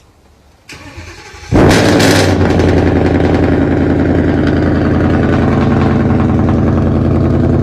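An engine starts suddenly about a second and a half in and then runs steadily and loudly with a fast, even pulse.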